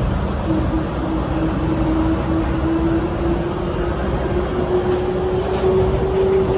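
Airport people-mover train running on its guideway: a steady rumble with an electric drive whine that slowly rises in pitch as it picks up speed.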